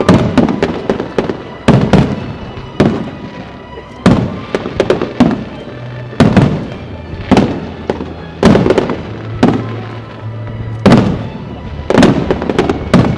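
Fireworks display: aerial shells bursting in quick succession, a sharp bang every second or so, some in close pairs, each trailing off in a rumbling echo.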